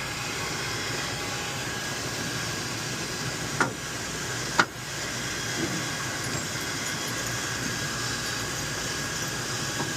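Steady rushing mechanical noise, with two sharp knocks about a second apart near the middle.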